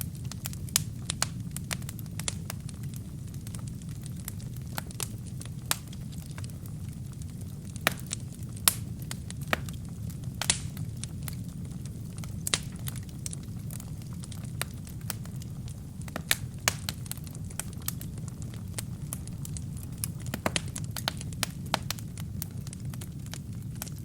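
Wood fire burning in a fireplace: a steady low rumble of flames with irregular sharp crackles and pops from the burning logs, the loudest snaps clustering around the middle and again past two-thirds of the way through.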